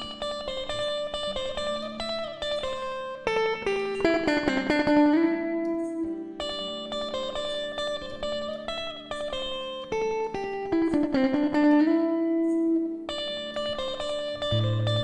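Live band playing an instrumental introduction led by plucked guitar, picking a melody with runs of notes.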